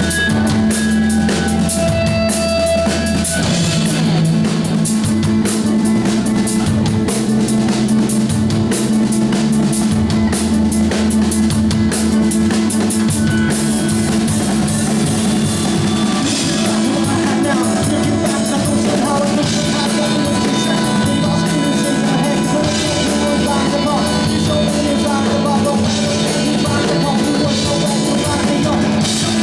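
Live rock band playing: drum kit, electric guitar and bass at full volume, with some singing, recorded from the audience.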